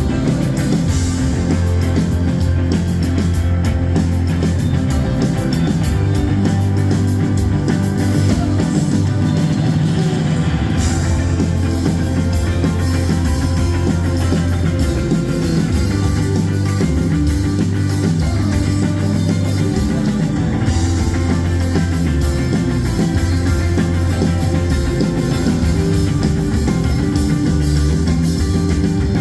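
Live rock band playing a song with electric guitar, bass and drums, loud and steady throughout.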